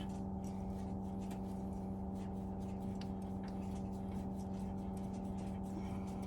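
A steady hum with a strong low tone and a ladder of overtones, with faint scattered clicks and ticks from the fan's wiring terminals being worked loose by hand.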